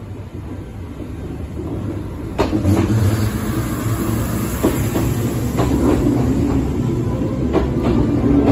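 Kintetsu limited express electric train pulling in alongside a station platform, growing louder as it nears. A sharp clack comes about two and a half seconds in, then more wheel clacks over rail joints every second or two over a steady low rumble.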